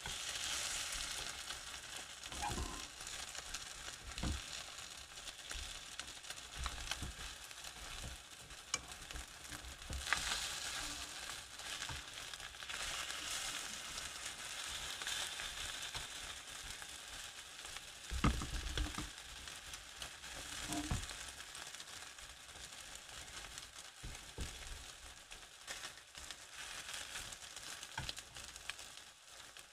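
Egg-battered sausage slices (sausage jeon) sizzling in oil in a frying pan, the sizzle swelling and easing. A few soft knocks come as the pieces are turned over with wooden chopsticks.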